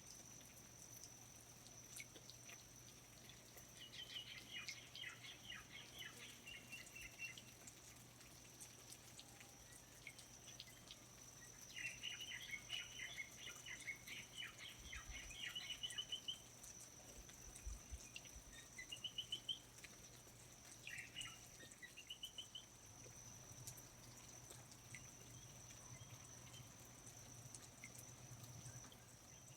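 Faint rainforest ambience: a steady high-pitched insect drone, with a bird singing quick trilling phrases every few seconds.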